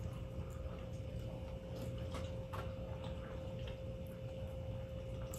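Faint chewing with scattered soft mouth clicks while eating a seafood boil, over a steady low hum and a thin steady tone.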